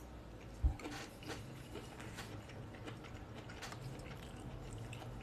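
Quiet chewing of a mouthful of cauliflower with egg and ham, with faint wet mouth clicks scattered through. A single dull thump sounds a little over half a second in.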